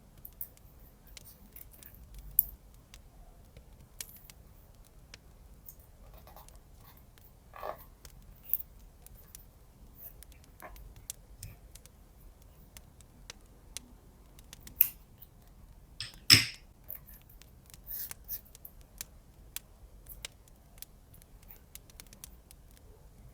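Scissors snipping and paper or washi tape being handled, in scattered short snips and rustles with quiet gaps. The loudest is a longer rustle about sixteen seconds in.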